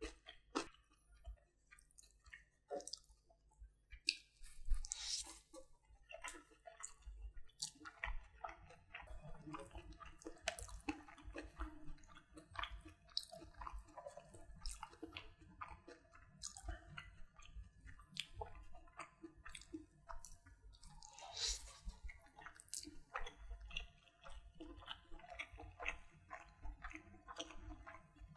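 Close-miked eating: steady chewing of fried rice and butter chicken with wet mouth clicks and smacks. Fingers squish the rice and curry together on the plate.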